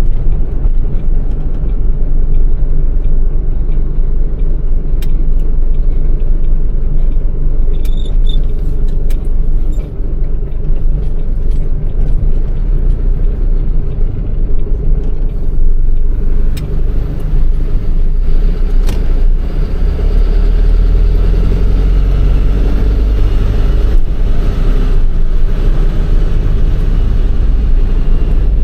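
MAN truck's diesel engine running while driving, heard from inside the cab, with steady road noise; the engine grows louder and deeper from about twenty seconds in.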